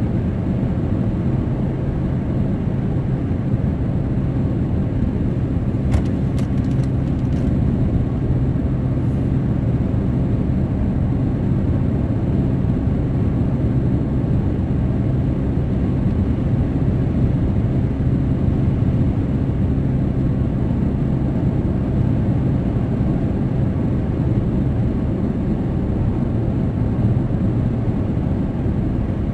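Steady road and engine noise inside a car's cabin while driving: an even low rumble with tyre noise. There are a few faint clicks about six to seven seconds in.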